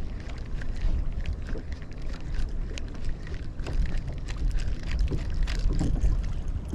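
Wind buffeting the microphone in a steady low rumble, with water lapping and slapping against a kayak's hull in short irregular splashes.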